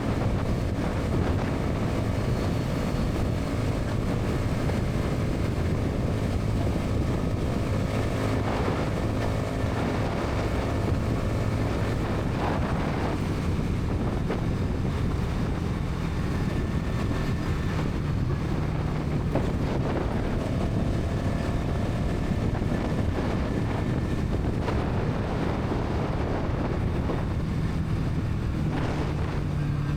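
Bajaj Pulsar NS 200's single-cylinder engine and exhaust running steadily at highway speed, with wind rushing over the microphone. The engine note climbs a little in the second half.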